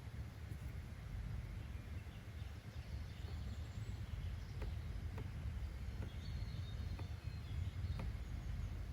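Nature ambience track: a steady low rumble of background noise with faint bird chirps, and a few soft clicks in the second half.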